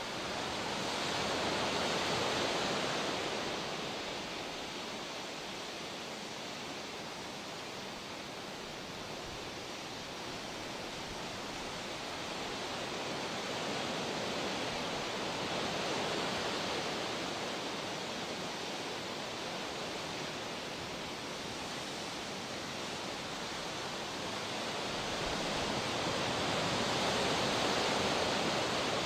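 Ocean surf: a steady wash of breaking waves that swells and ebbs slowly, cresting about every twelve to thirteen seconds.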